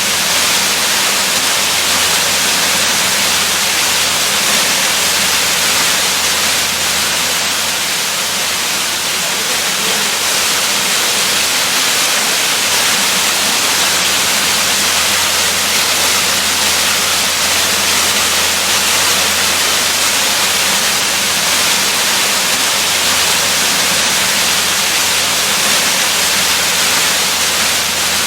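Waterfall rushing in a steady, unbroken hiss, heavier in the treble than in the bass.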